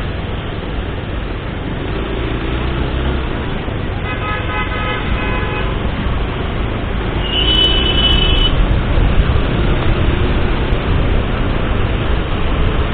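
Steady road traffic and wind rumble heard from a moving motorcycle, with vehicle horns sounding twice: one lasting almost two seconds about four seconds in, and a higher-pitched one lasting about a second, about seven and a half seconds in.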